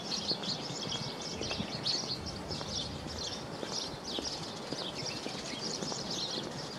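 Many small birds chirping and twittering continuously, over a low, even outdoor background noise.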